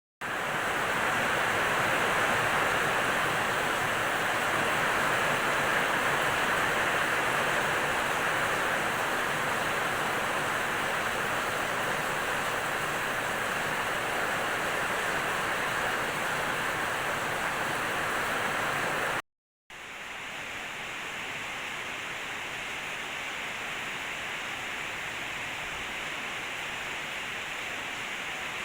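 Rain falling steadily, an even hiss. It cuts out for a moment about two-thirds through and resumes a little softer.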